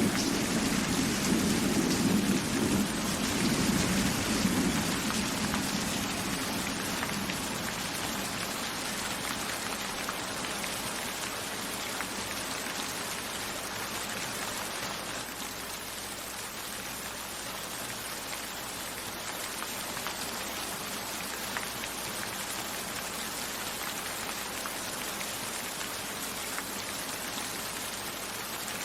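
Steady rain falling, with a low rumble of thunder in the first few seconds that dies away, leaving the even patter of rain.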